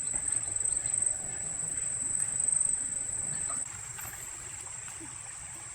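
Insects droning in one steady high-pitched tone over faint background noise; the drone drops quieter about two-thirds of the way through.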